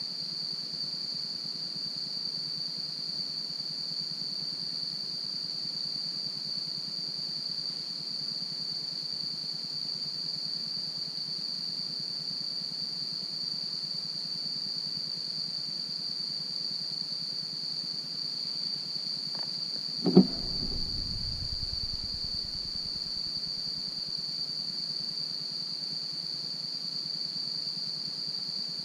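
Campfire ambience: a steady high-pitched drone with a low background hiss, broken once by a single thump about twenty seconds in.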